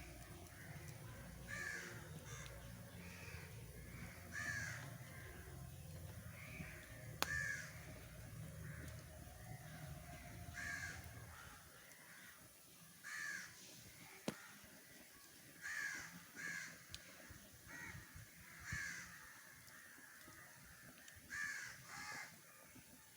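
Crows cawing, a dozen or so harsh calls one to three seconds apart, some in quick pairs. A few sharp clicks are heard, and a low rumble drops away about halfway through.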